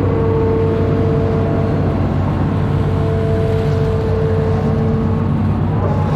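Amphibious excavator's diesel engine running steadily, a continuous low drone with a held higher tone over it.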